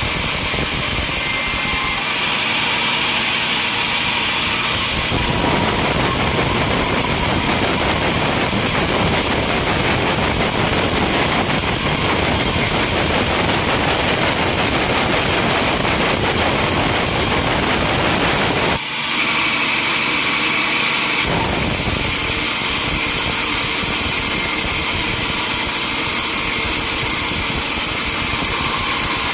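Sawmill machinery running: steady, loud motor and saw noise, changing abruptly a few times as the sound switches from one machine to another.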